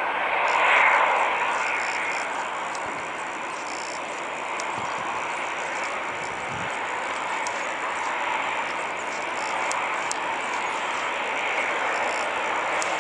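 Jet airliner engines running, a steady rush with a high whine on top that swells briefly about a second in, with faint scattered ticks.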